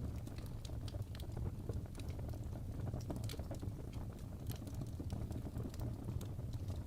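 Wood fire in a fireplace crackling: frequent small sharp pops and snaps, several a second, over a steady low rumble of the burning fire.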